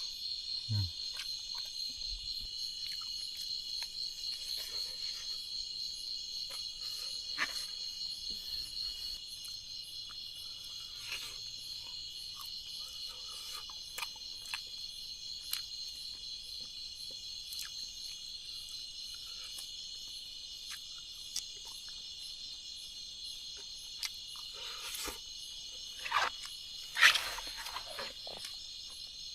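Insect chorus: a steady, high-pitched trilling. Scattered short clicks run through it, and there are two louder knocks near the end.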